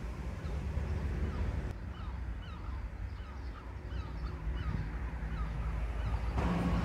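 Birds calling over and over in short, quick hooked notes, over a steady low rumble. Music comes in about six and a half seconds in.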